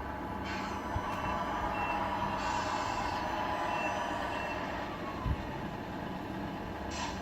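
Sound unit of a Tamiya RC scale truck playing a truck diesel running, with four short reversing beeps and short hisses of air release. Two low thumps, one about a second in and a louder one past the five-second mark.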